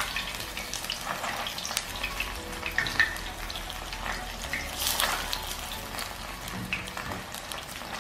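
Battered chicken wings frying in hot oil in a stainless steel pan, a steady crackling sizzle, with a few sharp clicks as metal tongs turn and lift the pieces.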